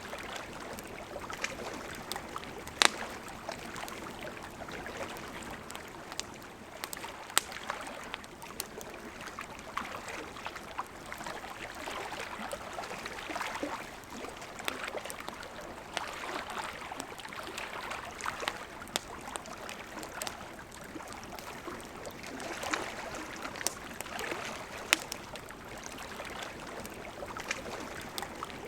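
River water rushing steadily, with a campfire crackling: scattered sharp pops and snaps of burning wood, a few of them standing out loudly.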